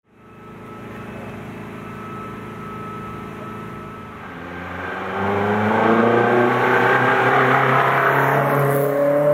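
Race car engine running steadily, then revving up from about four and a half seconds in, its pitch climbing slowly as it gets much louder.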